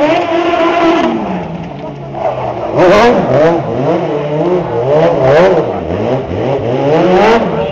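Modified competition car's engine revving hard, its pitch climbing and dropping repeatedly as it accelerates and lifts off in short bursts. There are louder pushes about three seconds in, near five and a half seconds, and just before the end.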